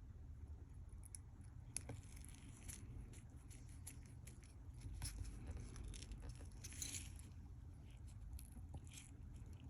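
Faint, scattered small clicks and scrapes from tiny Casio F91 watch parts being handled and fitted, with a short scratchy rustle about seven seconds in.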